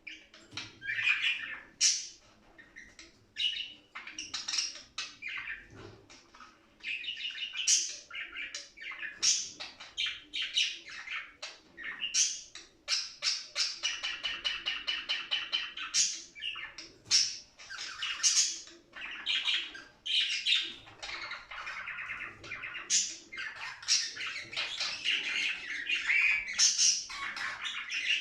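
Budgerigars chirping and warbling in a dense, continuous stream of short high chirps and chatter.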